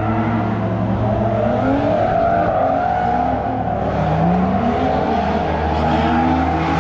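Several car engines: one steady low engine note close by, with other engines rising and falling in pitch as they rev, typical of drift cars running on track.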